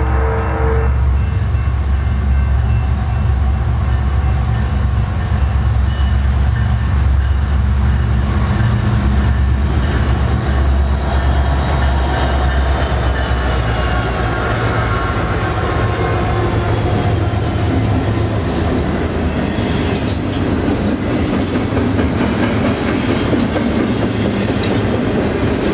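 Diesel locomotive horn cutting off about a second in, then three diesel freight locomotives rumbling past with a high whine that falls in pitch. Near the end, double-stack container well cars roll by with wheel clatter and sharp clicks over the rail joints.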